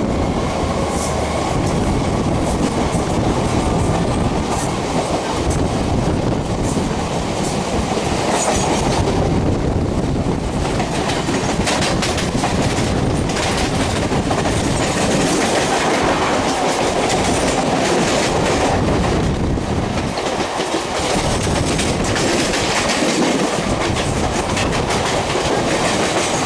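Express passenger train running along the track: a steady rumble of coach wheels on the rails, with a clickety-clack of wheels over rail joints.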